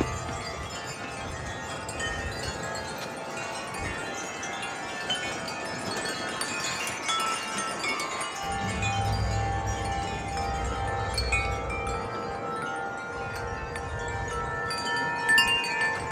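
Several wind chimes ringing in gusty wind, many clear metal tones struck at random and overlapping as they fade. About halfway through a gust rumbles on the microphone for a few seconds.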